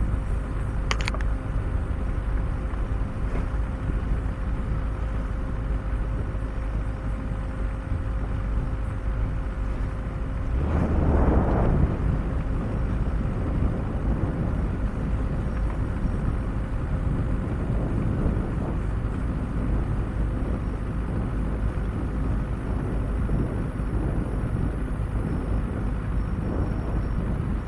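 Off-road vehicle driving slowly along a rough, overgrown forest track: a steady low engine and road rumble, with a louder rushing swell lasting a second or so about ten seconds in.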